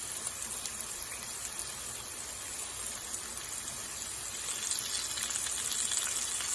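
Boiled potato pieces sizzling and crackling steadily in hot oil as they brown, growing a little louder near the end.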